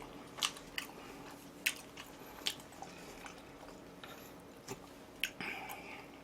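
Close-miked chewing of charcoal-grilled jokbal (braised pig's trotters): soft wet chewing broken by about six sharp mouth clicks and smacks.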